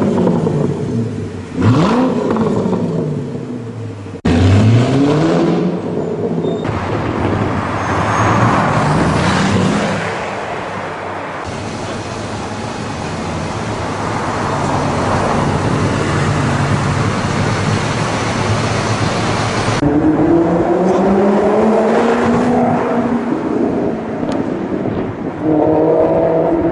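Supercar engines revving hard and accelerating past, one after another. There are sharp throttle blips whose pitch shoots up around two and four seconds in, a stretch of passing road noise in the middle, and an engine pulling hard with steadily rising pitch from about twenty seconds in. The sound changes abruptly several times, as if cut from one car to the next.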